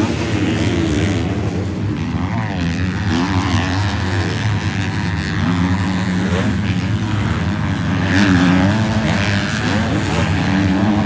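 Several 250-class motocross bikes racing together, their engines revving up and down over one another; the sound swells about eight seconds in.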